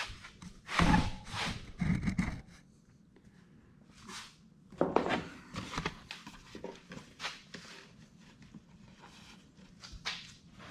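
Scattered rustling, knocks and footsteps of a person moving about and handling gear, mostly in the first couple of seconds and again around the middle, with quiet stretches between.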